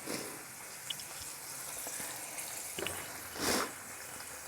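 Onions and spice powder frying in oil in a kadai, a soft steady sizzle with a couple of light clicks and a brief louder surge of sizzle about three and a half seconds in.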